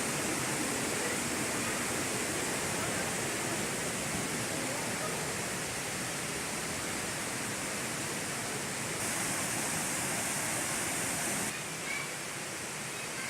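Waterfall rushing: a steady, even roar of falling water. It turns brighter and hissier about nine seconds in and drops a little quieter a couple of seconds later.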